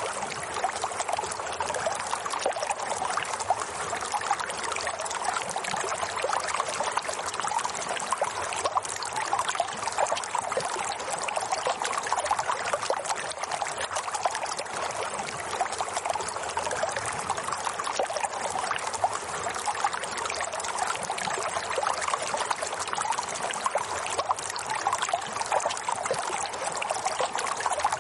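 Water trickling and flowing steadily, like a small stream, with a constant dense spatter of small splashes.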